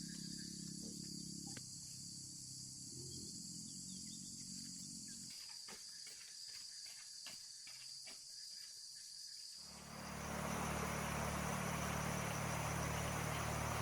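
Insects chirring steadily, with a few faint clicks. About ten seconds in, a motor starts running with a low steady hum and a hiss, louder than the insects.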